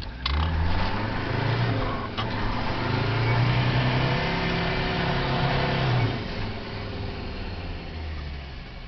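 Mercedes-Benz turbo diesel engine accelerating hard under load. Its note rises steadily for about six seconds, then drops back to a quieter steady run as the throttle eases off.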